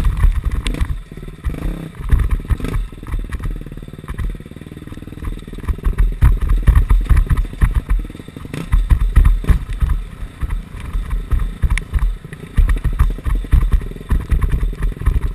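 KTM 250 SX-F four-stroke single-cylinder dirt bike engine running under throttle on rough ground, with rattling knocks and heavy rumbling buffeting on the bike-mounted camera's microphone. It eases off for a few seconds about a second in, then comes back louder.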